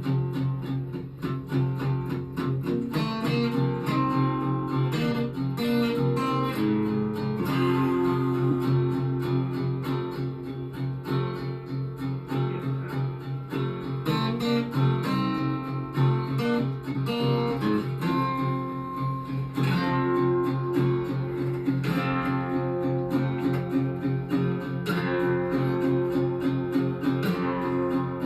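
Acoustic guitars strummed hard together in a loose rock jam, with a steady driving rhythm and repeating chord changes.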